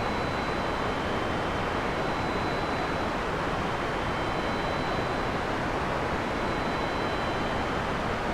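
Heavy rain falling steadily on a forest, a dense even hiss with no thunder.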